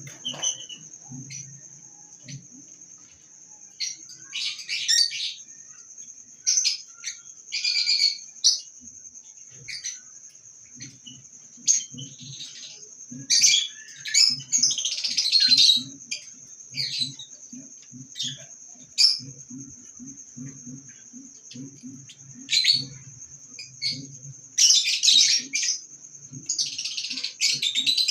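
Baby parrot chick chirping in short bursts of high calls, with louder bouts around the middle and near the end. A steady thin high tone and soft low pulses, about two a second, run underneath.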